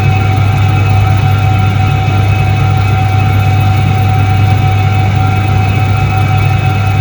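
1978 Soviet Iset-3 washing machine running: a loud, steady electric-motor hum with a strong low drone and a few steady higher tones, unchanging throughout.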